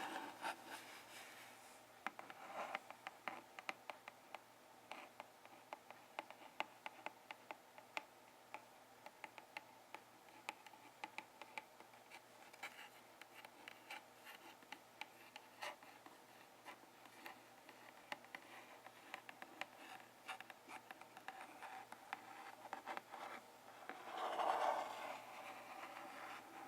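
Close-up scratching and tapping on an object, a long run of quick, small clicks, with a louder rustle near the end.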